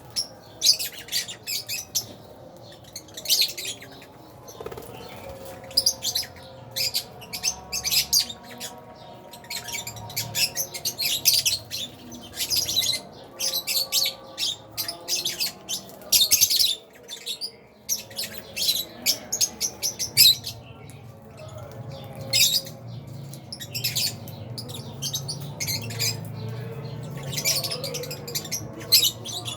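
A flock of Fisher's and albino lovebirds chirping: many short, sharp, high-pitched chirps overlapping in quick, irregular succession.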